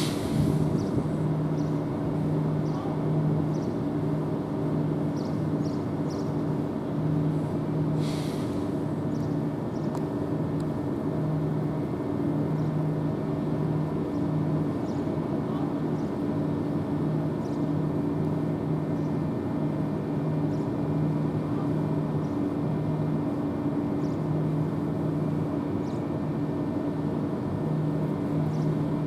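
Electric multiple-unit train standing at the platform, giving a steady low hum that pulses on and off about once a second. A short burst of air hiss comes about eight seconds in.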